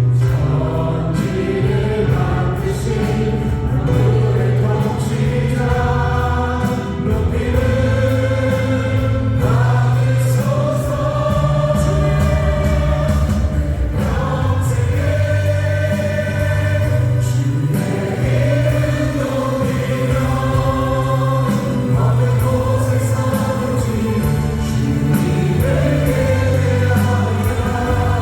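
Worship band playing a contemporary praise song: several voices singing together over keyboards, drums and acoustic guitar.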